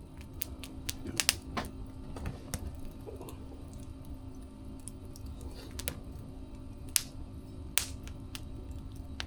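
Wood fire crackling: irregular sharp pops and snaps, a few louder ones about a second in and near the end, over a low steady rumble.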